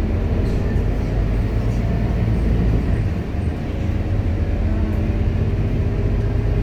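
Scania K230UB Euro V single-deck city bus on the move: its diesel engine running steadily under a low rumble of road and body noise.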